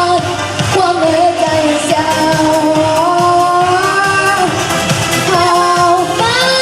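A young girl singing a pop ballad over a backing track, holding long notes that glide from one pitch to the next.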